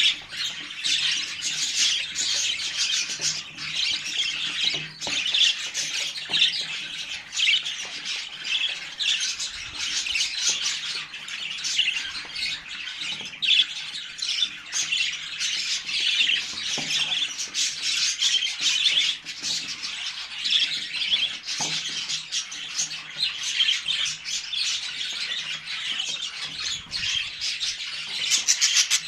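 Budgerigar chicks calling continuously: many short, overlapping calls with no pause.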